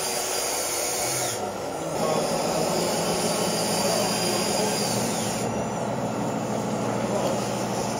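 Scale RC model machinery running: small electric motors and gearing whine steadily, with a high-pitched whine that falls away twice.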